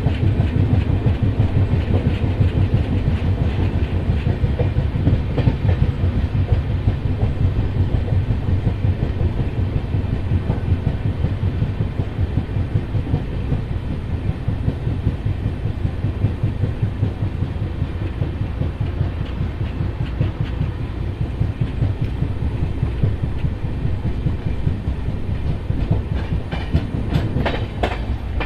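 A train running along the rails close by, its wheels making a steady, rapid clatter over a deep rumble.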